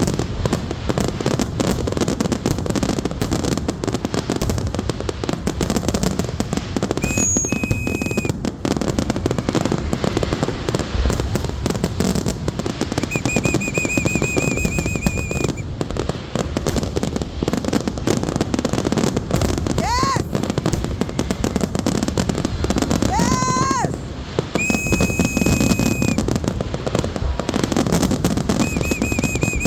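Fireworks going off: a dense, unbroken crackling and popping, with high whistling fireworks shrieking on a steady pitch several times and two whistles rising in pitch about two-thirds of the way through.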